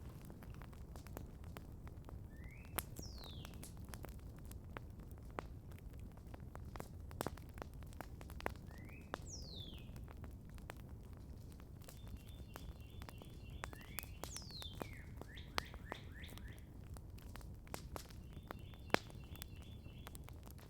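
Campfire crackling with frequent small pops and one sharp louder pop near the end. Over it a bird calls several times: a short rising note followed by a falling whistled sweep, and rapid trills a little past the middle and again near the end.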